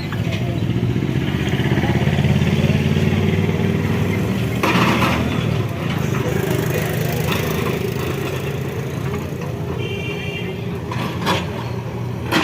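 Diesel engine of a demolition bulldozer running steadily, working harder about two seconds in. There is a noisy burst about five seconds in, and two sharp cracks near the end.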